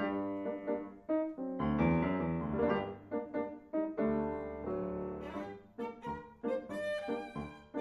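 Piano music: a busy run of struck notes and chords.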